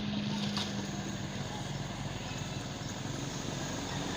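Truck engine running steadily, a low even hum.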